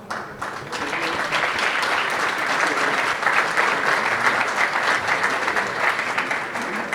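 Audience applauding: the clapping starts suddenly, builds over the first second and then holds steady.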